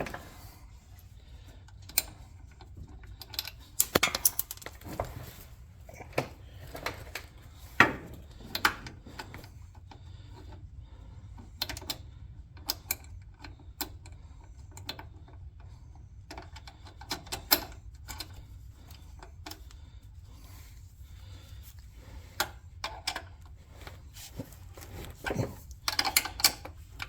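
Scattered light metallic clicks, clinks and knocks of hand tools and shifter parts being handled while the shift cable is adjusted, irregular and spaced out, over a steady low hum.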